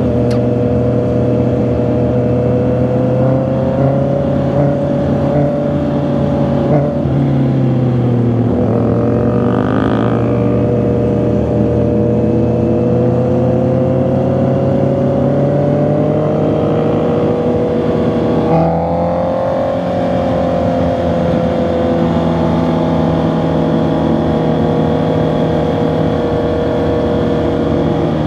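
Honda CB650R's inline-four engine and exhaust on the move. The engine note drops about eight seconds in and climbs back steadily, then changes abruptly near nineteen seconds and eases off.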